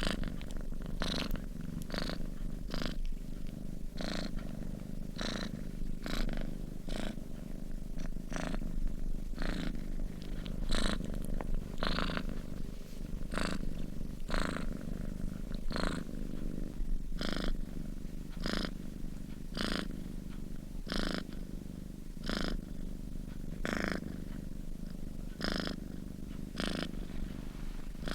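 Domestic cat purring steadily in its sleep: a continuous low rumble, with a soft airy breath sound about once a second that slows a little toward the end.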